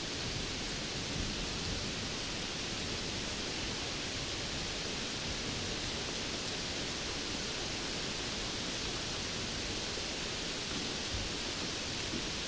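Steady rainfall: an even, unbroken hiss with no drops or gusts standing out.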